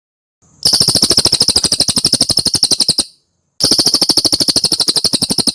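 Cililin bird singing two rapid, evenly pulsed trills of about a dozen high notes a second, with a brief pause between them.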